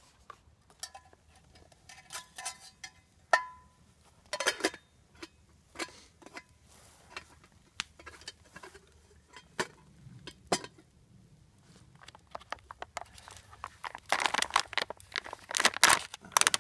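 A microwave pasta meal's plastic packaging being handled and its contents emptied into a metal canteen cup: scattered crinkles, scrapes and clicks. There is a sharp ringing clink of the metal cup about three and a half seconds in, and a louder burst of rustling near the end.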